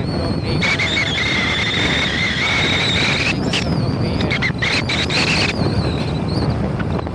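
Loud wind buffeting the microphone, a steady low rumble, with a high wavering squeal for a few seconds near the start.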